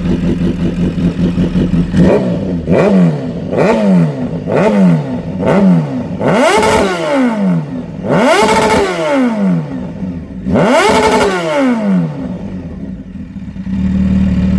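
Supercharged Kawasaki H2's inline-four, through a Project One titanium header and SC Project CRT carbon slip-on exhaust, idling, then revved in five quick blips. Three longer, higher revs follow about 6, 8 and 11 seconds in, and it settles back to a steady idle near the end.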